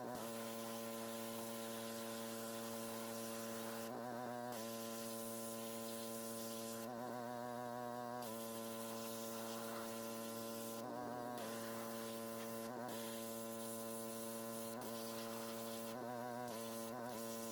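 Power washer running steadily with the hiss of its high-pressure spray; the spray stops briefly four times, and each time the motor's hum wavers in pitch as the load comes off.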